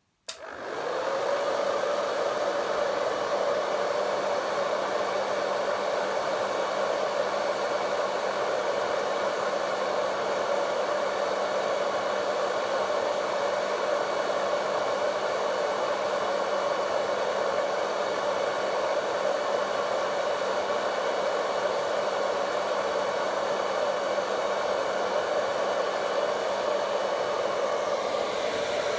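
Vidal Sassoon Hot Tools hair dryer switched on with a click, spinning up within about a second, then running steadily: a rushing blast of air over a constant motor hum.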